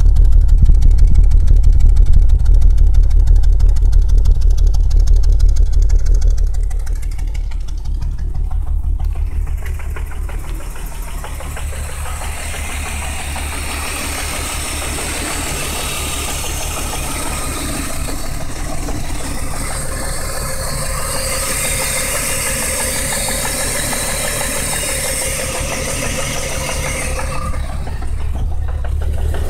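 BMW 328is's M52 straight-six, fitted with swapped-in S52 camshafts, running steadily with a knocking noise that the owner cannot identify, on an engine whose cam timing he suspects may be off. It is loudest and deepest for the first six seconds, then quieter and thinner, with more hiss.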